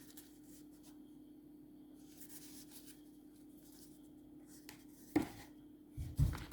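Hands handling small cardboard fireworks: faint rubbing and scraping, a sharp tap about five seconds in, and a louder knock as one is set down near the end, over a steady low hum.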